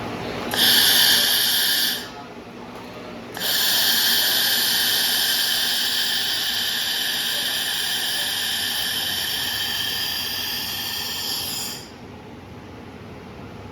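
Laser welding machine running in two bursts, a short one and then a long one of about eight seconds. Each gives a loud, high hissing whine with a few steady pitches in it.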